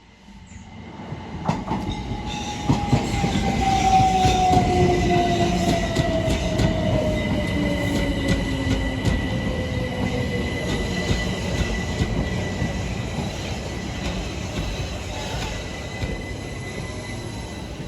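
A train passing close by, building up over the first few seconds and then slowly fading. A whine falls steadily in pitch throughout, over a steady high tone, with wheel clicks over the rail joints.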